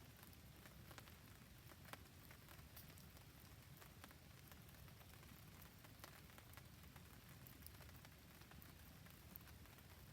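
Faint rain and a campfire: a soft, steady hiss with scattered small ticks and crackles.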